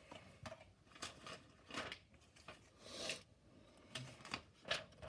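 Cardboard playset pieces being handled and their tabs worked into slots: a string of short rustles and scrapes, about eight in all, the loudest about three seconds in.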